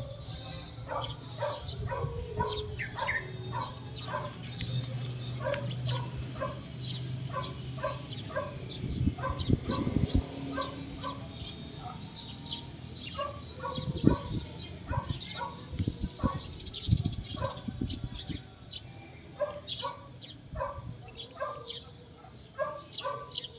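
Birds chirping: many short calls overlapping throughout, over a low steady hum, with a few dull thumps about nine and fourteen seconds in.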